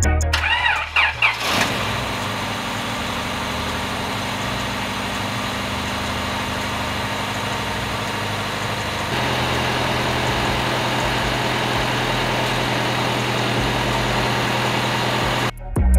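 Honda D16Y7 1.6-litre SOHC four-cylinder cranking briefly on the starter, catching and settling into a steady idle. About halfway through, the idle steps up to a slightly higher, steady speed.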